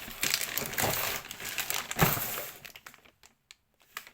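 Robot vacuum packaging being handled, crinkling and rustling, with a bump about two seconds in; the handling stops about three seconds in.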